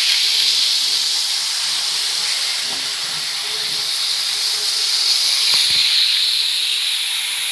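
Steady, high-pitched hiss that holds evenly throughout, with faint voices underneath.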